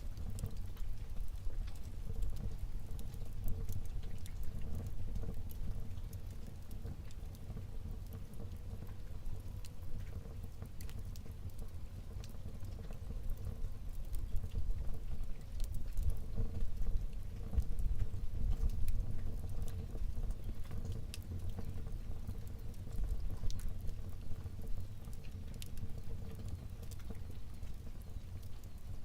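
Wood fire burning in a fireplace: a low steady rumble from the flames, with scattered sharp crackles and pops.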